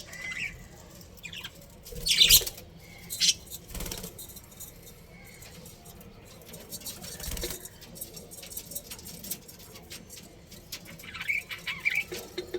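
Budgerigars giving short bursts of chirping, loudest about two seconds in and again near the end, with scattered light clicks and rustles between the calls.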